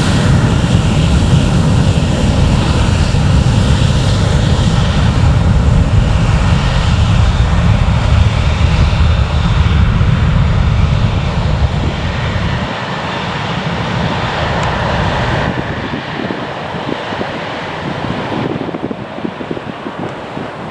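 Departing airliner's engines at takeoff power, a loud rumble and roar that drops away about twelve seconds in and keeps fading as the aircraft climbs away. Wind buffets the microphone near the end.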